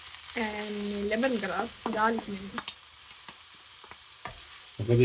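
Chopped onion, ginger and lemongrass sizzling gently in oil in a wok, with a wooden spatula stirring and clicking against the pan. A man's voice sounds briefly over the first couple of seconds.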